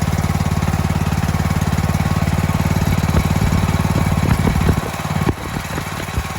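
Briggs & Stratton 15.5 hp engine of a McCulloch ride-on mower running warm through its new exhaust with a steady, fast firing beat. About five seconds in, the beat turns uneven and the level drops as the engine slows.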